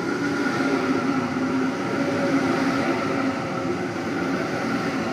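Sydney Trains Waratah electric train pulling into the platform, with a steady multi-note whine from its traction motors over rolling noise.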